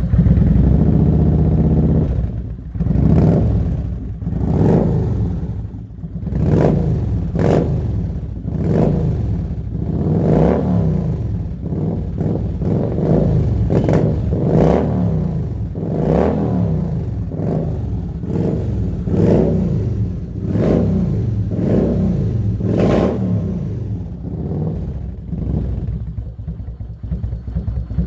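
Kawasaki Vulcan 900's V-twin engine running through an aftermarket Cobra exhaust. It idles for a couple of seconds, then is blipped again and again, about a dozen short revs rising and falling every second or two, and settles back to idle near the end.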